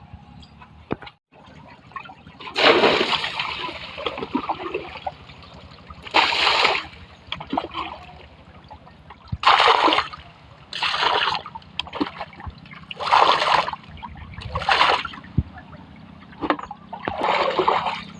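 Water splashing onto a tractor as it is washed, in about seven short bursts a second or few apart.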